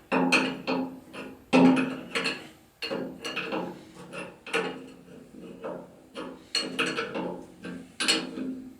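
Irregular series of sharp metal clinks and taps, each ringing briefly, as tools and parts are handled on a cast-iron hit-and-miss engine during its rebuild.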